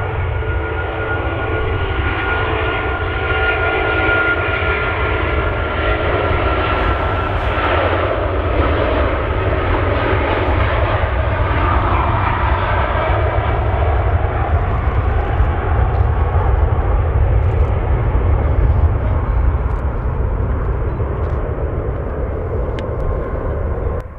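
Jet airliner's engines passing, a high whine over a deep rumble, growing louder in the middle and easing off again before cutting off abruptly at the end.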